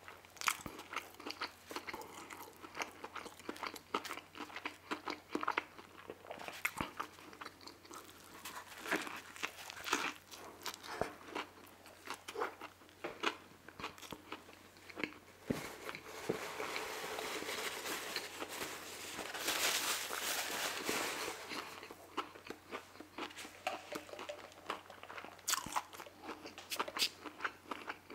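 Close-up eating sounds of a crispy fried chicken sandwich: many small crunches and wet chewing clicks, with a few seconds of steadier hissy sound a little past the middle.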